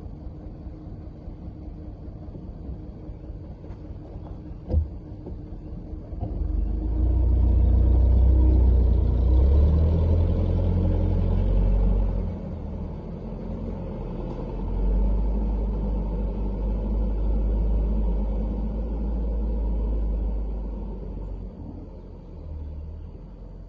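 Truck engine rumbling, revving up loudly about six seconds in, easing off, picking up again and fading away near the end. A single sharp knock comes shortly before the engine swells.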